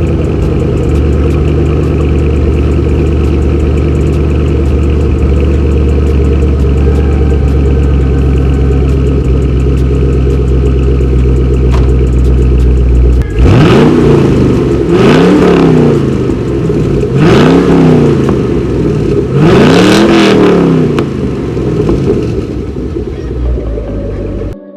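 2013 Camaro 2SS 1LE's 6.2-litre V8 idling steadily, then revved four times about halfway through, each rev climbing and falling back to idle. This is the car running after its wreck repair.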